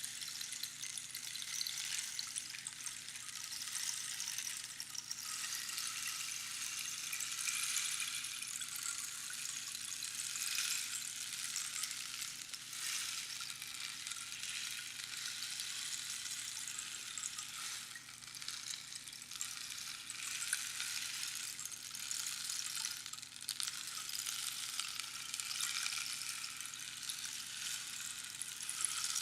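Rainstick being tipped, pebbles or beads trickling down past the pins inside the hollow tube in a steady rain-like patter that swells and eases in waves.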